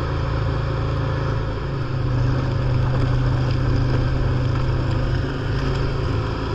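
John Deere lawn tractor engine running steadily with its snow blower attachment; the engine note rises and gets louder a little under two seconds in.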